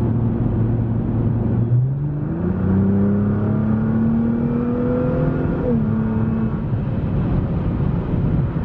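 Nissan GT-R R35's twin-turbo V6 with a custom titanium cat-back exhaust, accelerating. The engine note climbs steadily for about four seconds from near two seconds in, drops sharply at a gear change, then holds steady.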